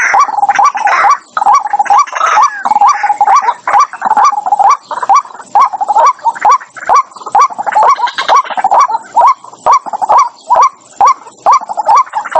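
White-breasted waterhen calling: a rapid, unbroken series of short rising notes, about two to three a second, with a second bird's calls overlapping at times.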